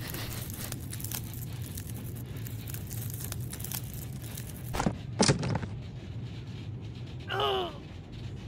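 Low steady airliner cabin drone under a crackling noise, with two sharp thuds about five seconds in and a short falling groan near the end.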